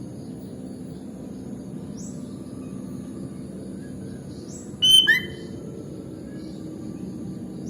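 Sooty-headed bulbul giving one short, loud burst of chirping call notes about five seconds in, ending in a falling note. Faint high chirps come earlier, over a steady low background rumble.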